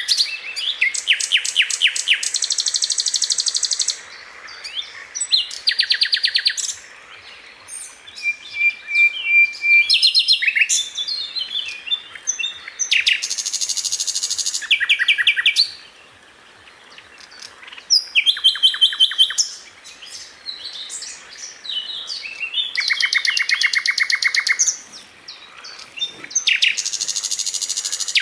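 Sikatan Londo flycatcher singing: bursts of very fast, tightly packed high notes in trilled phrases a second or few seconds long, broken by short pauses with scattered chirps.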